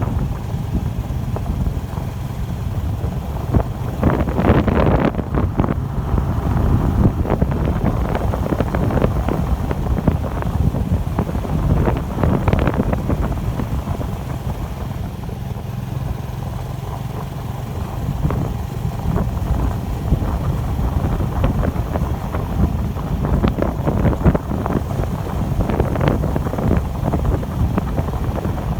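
Wind buffeting the microphone during a bike ride, over a steady low rumble of road and tyre noise with irregular rattles and a few stronger gusts, the strongest about four to five seconds in and near twelve seconds.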